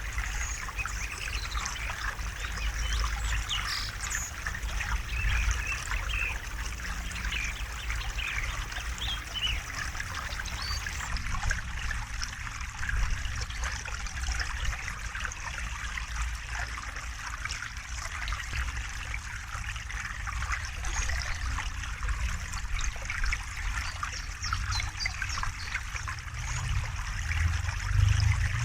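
River water trickling and flowing steadily, with many small splashes over the running water and a low rumble underneath.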